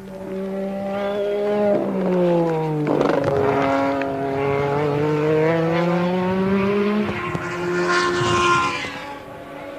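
A 1983 Formula One car's engine revving hard. Its pitch drops twice as it shifts down, then climbs steadily as it accelerates, with another change near the end before the sound fades.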